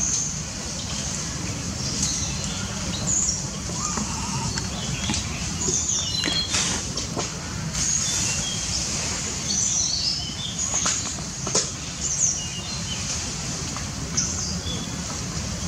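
Outdoor ambience: many short, high chirps over a steady low rumble and a high hiss, with a few sharp clicks.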